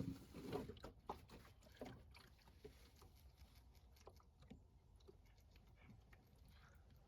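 Faint handling noises: a quick cluster of knocks and rustles in the first two seconds, then scattered light clicks.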